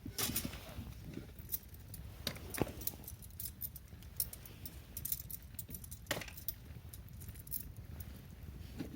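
Pine cones burning in a campfire, crackling with irregular sharp pops and snaps over a low steady rumble of the fire.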